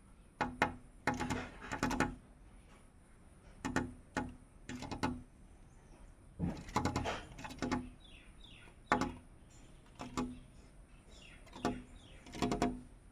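A small bird pecking and striking at a dark glass pane, in irregular bursts of quick sharp taps that ring briefly. A few short, falling chirps come between the bursts, around the middle and again near the end.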